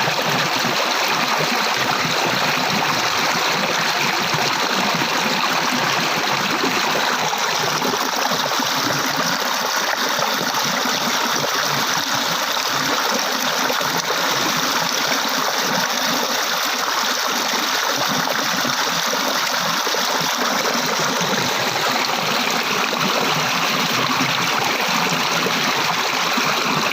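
Water flowing steadily over rocks in a stream, a continuous rushing and gurgling.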